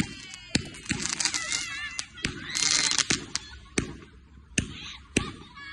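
Fireworks going off: a string of sharp bangs spaced half a second to a second apart, with bursts of crackling hiss. A wavering high-pitched sound comes about a second and a half in.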